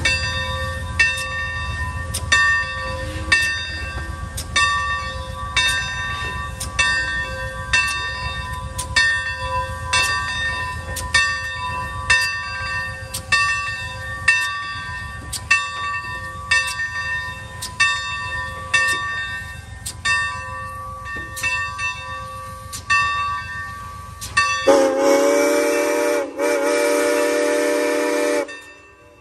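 Steam locomotive's bell ringing steadily, about one stroke a second, over the low rumble of the train rolling in. Near the end the locomotive's whistle sounds one long blast of about four seconds.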